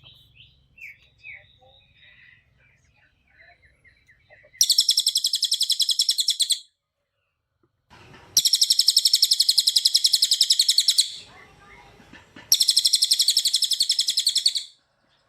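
A cililin songbird singing: a few soft chirps, then three loud, very rapid, high-pitched trills of tightly packed notes, each about two seconds long, with short pauses between them.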